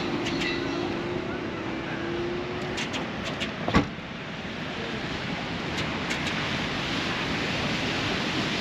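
Steady wash of sea surf and wind noise, with a faint low hum in the first couple of seconds, a few light clicks, and one sharp knock just under four seconds in.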